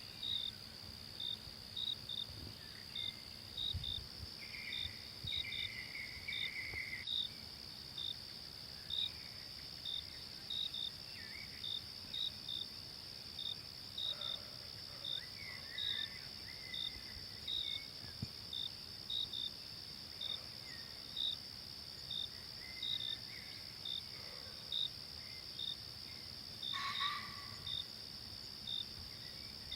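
Forest insects: a steady high drone with short chirps repeating at one pitch throughout, and scattered short bird calls, one louder call about 27 seconds in.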